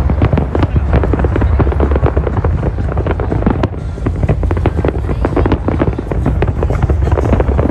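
Fireworks going off in rapid succession: a dense run of cracks and pops over a continuous low rumble.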